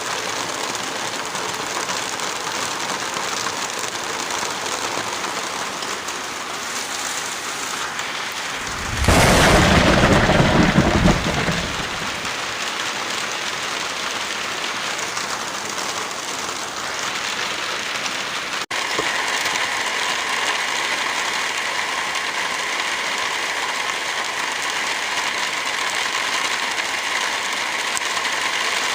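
Steady heavy rain with a clap of thunder about a third of the way in that rumbles for a couple of seconds. After a brief dropout about two-thirds of the way through, the rain continues as a steadier hiss.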